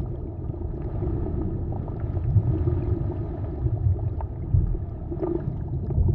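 A low, steady rumbling and gurgling noise with scattered faint clicks, like a deep underwater ambience.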